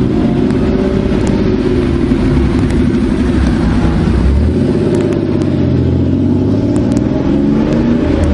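Sports car engines running close by, their pitch rising and falling as a car drives slowly past and others move up behind it.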